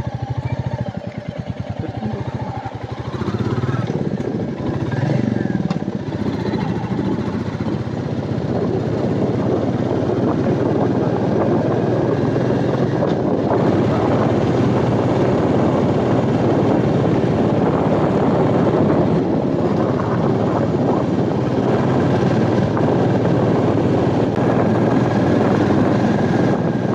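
Royal Enfield Meteor 350's single-cylinder engine running while riding, building up over the first few seconds and then holding a steady cruise.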